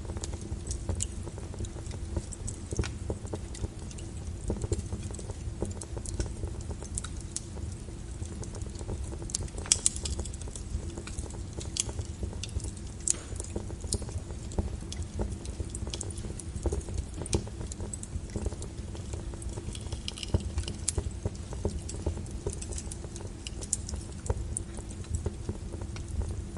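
Wood logs burning in a fireplace, with irregular crackles and pops over a low steady rumble; one louder pop comes about ten seconds in.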